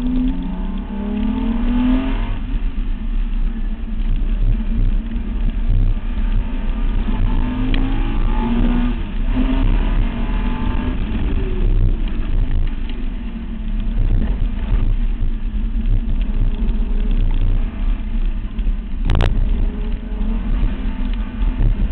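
Datsun 240Z engine pulling hard at speed on a track, its pitch rising as it revs up near the start and again around the middle, over heavy wind and tyre rumble from a body-mounted outside microphone. A single sharp click cuts through about three-quarters of the way in.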